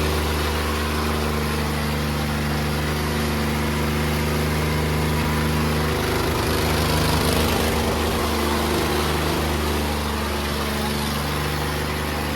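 Tractor diesel engine running steadily at constant speed.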